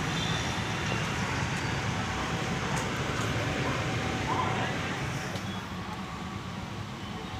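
Car engine running steadily, with a constant rushing noise over it and the level easing slightly about two-thirds of the way through.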